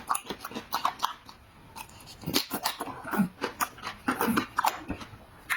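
Close-up chewing and crunching of fried spare ribs: many quick, irregular crunches, with a few short low vocal sounds between them.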